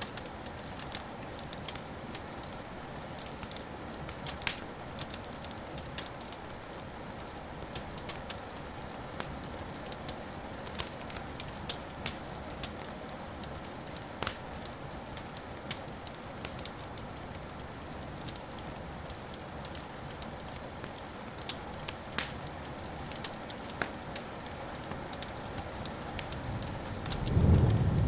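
Wood fire crackling steadily, with sharp pops scattered throughout. Near the end a low rumble of thunder swells in and becomes the loudest sound.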